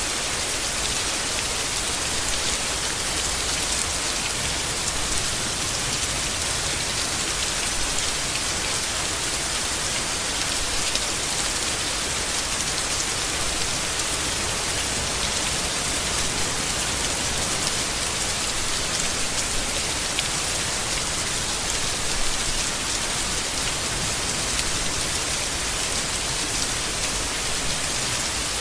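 Steady rain falling on foliage, an even hiss of many drops.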